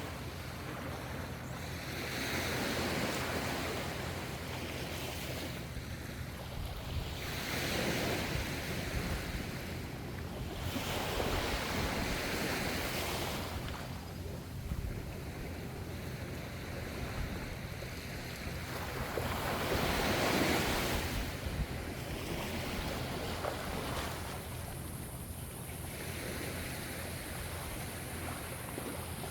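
Ocean waves breaking and washing in, a steady hiss of surf that swells and fades every several seconds.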